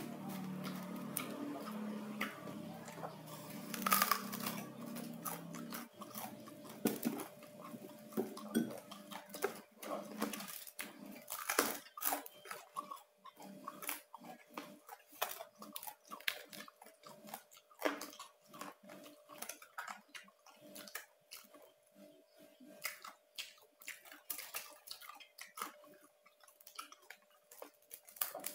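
Close-up chewing and crunching of crispy roast pork (saucu), with many irregular crunches and mouth clicks.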